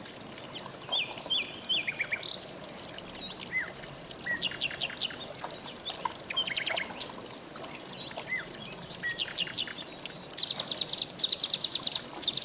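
Several songbirds chirping and whistling in short varied notes, with a fast trill repeated several times in the last few seconds, over a steady rush of flowing river water.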